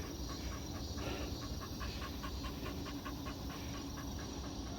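A dog panting quickly and rhythmically, about five breaths a second.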